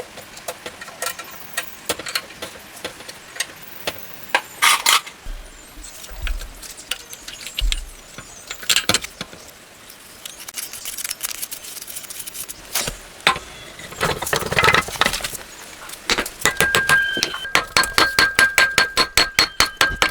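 Metal parts and hand tools clinking, knocking and scraping during engine repair work. Near the end comes a quick, even run of metallic clicks, about six a second.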